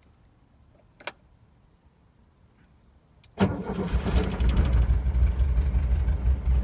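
1965 Volkswagen Karmann Ghia's air-cooled flat-four engine being started: a single click about a second in, then a little over three seconds in the engine catches at once and runs on steadily.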